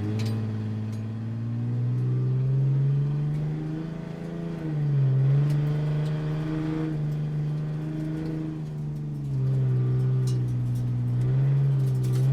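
Sports car engine running at a low, even note, its pitch rising and falling gently a few times as it is lightly revved or driven slowly.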